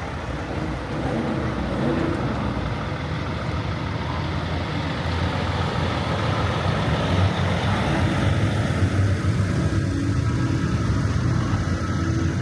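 Trucks' engines running as they drive past, a steady heavy engine noise that gets louder about a second in.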